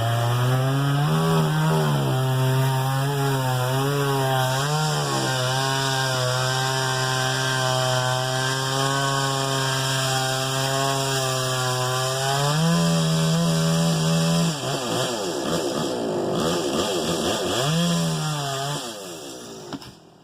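Echo CS-670 two-stroke chainsaw running at high throttle while sawing oak. Its engine note dips and rises several times and holds higher for a couple of seconds. It then turns rough and wavering for the last few seconds, and the sound drops away just before the end.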